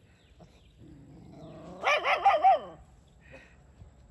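A dog barking three times about two seconds in, after a faint low sound.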